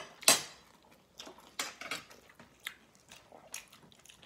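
Close-up mouth sounds of a person eating rice and fried fish by hand: chewing and wet lip and finger smacks, a sharp one about a third of a second in and several softer ones after.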